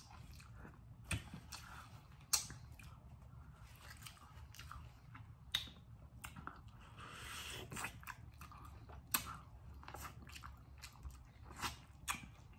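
Close-up chewing of sauce-coated corn on the cob: soft wet mouth sounds broken by scattered sharp clicks and smacks.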